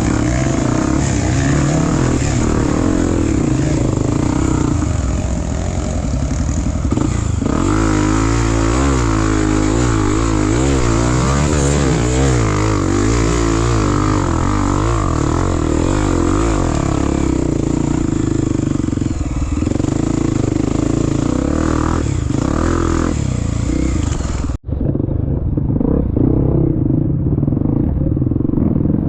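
Dirt bike engine revving up and down continuously, its pitch rising and falling with the throttle. About 25 seconds in it cuts out for an instant and comes back duller.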